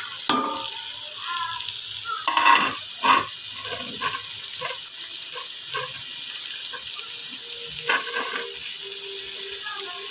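Diced carrots and other vegetables sizzling in hot oil in a metal pot, just tipped in on top of sautéed tomato and onion. The sizzle is steady, with a couple of louder clattering scrapes about two and a half and three seconds in.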